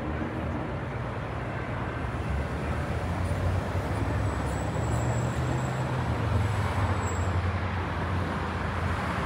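Metra commuter train departing, led by an F40PHM-3 diesel-electric locomotive: a steady low engine rumble with wheel noise on the rails, swelling a little in the middle. A thin high whine runs for a few seconds in the middle.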